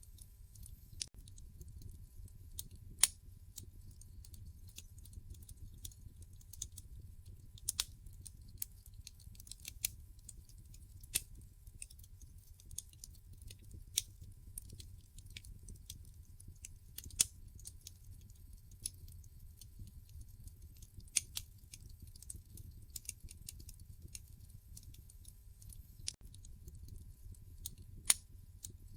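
Wood fire burning in a fireplace: irregular sharp crackles and pops from the logs, a few louder snaps among them, over a faint low rumble of the flames.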